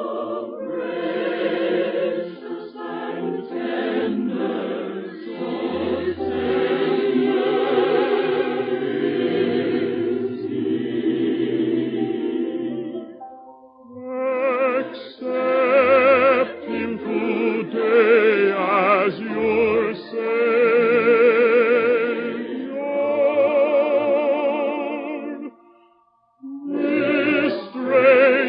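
Choir singing a slow gospel hymn with heavy vibrato, in long held phrases broken by short pauses about halfway through and near the end.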